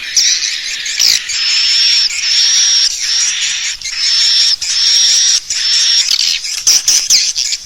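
Swiftlet lure call: recorded swiftlet twittering used to attract swiftlets to roost and nest in a swiftlet house. A run of high, buzzy chirps, each held on a steady note for under a second, with quicker short sweeping chirps near the end.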